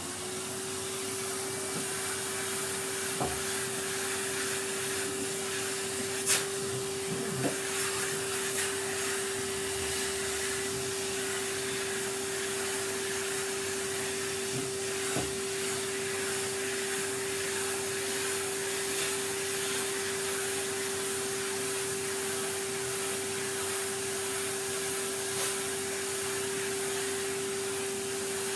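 Vacuum cleaner switched on, its motor spinning up within the first moment and then running steadily with a constant whine over a rushing hiss. A few short knocks and clicks come now and then, the sharpest about six seconds in.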